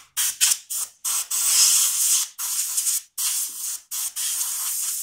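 Compressed-air blow gun blowing debris out of a mower deck: three quick short blasts of hissing air, then several longer blasts.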